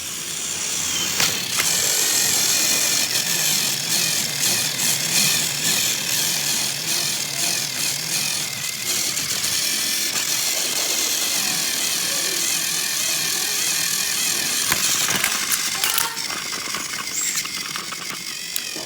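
A small motor running steadily with a high, noisy whir, coming up about a second in and dying away near the end.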